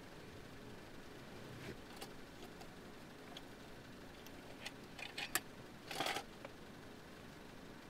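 Quiet background hiss with a few small sharp clicks about five seconds in, then a brief rustle about a second later.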